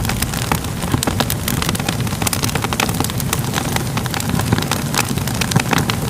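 Crackling fire: a steady low rumble of burning with frequent, irregular pops and crackles.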